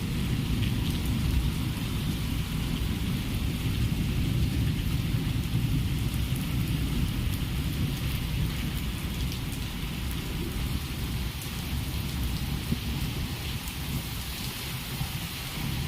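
Heavy rain pouring steadily in a storm, a constant hiss of drops with a continuous low rumble underneath.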